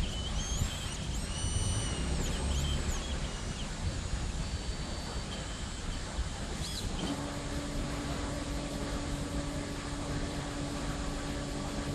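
Mini CNC machine running: high whines glide up and down for the first few seconds as its motors speed up and slow down, then a steady hum sets in about seven seconds in over a constant mechanical rumble.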